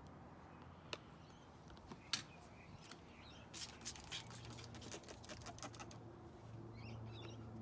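A hand sprayer squirting pest-control oil onto foliage in short hissing bursts: a couple of single squirts, then a quick run of them in the middle. Birds chirp faintly in the background.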